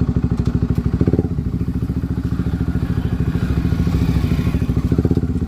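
Motorcycle engine running with a rapid, even thumping beat, briefly louder about a second in.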